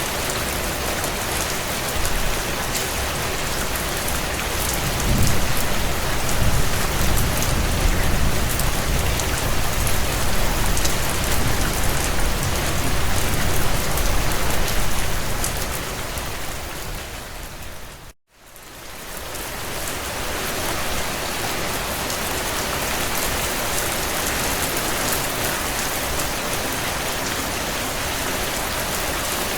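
Steady heavy rain on a window, with faint scattered crackles from a wood fire. A low rumble runs under it for about ten seconds from around five seconds in. Just past halfway the whole sound fades briefly to silence and then fades back in.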